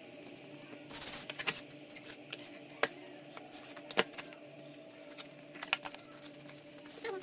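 Netbook packaging being handled and opened: rustling with several sharp clicks and taps.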